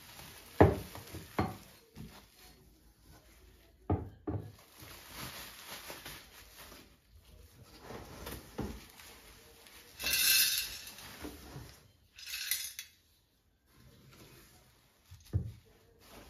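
Dishes and cutlery being handled and set down: a series of separate knocks and clinks, with two brief noisier clattering bursts about ten and twelve seconds in.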